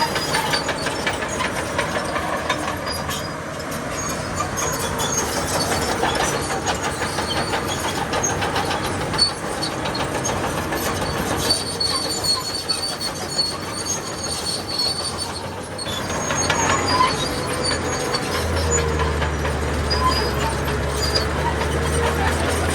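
Crawler bulldozer working: its diesel engine running under a dense clatter of steel tracks clanking, with a thin high squeal now and then. A deep engine drone comes in near the end.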